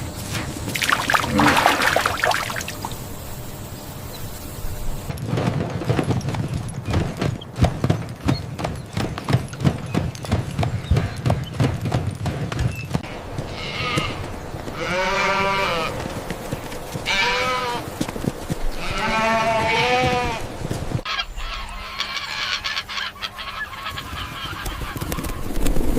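Animal calls: four wavering, pitched calls in a row, about two seconds apart, over rustling and clicking. The sound changes abruptly twice, as between edited clips.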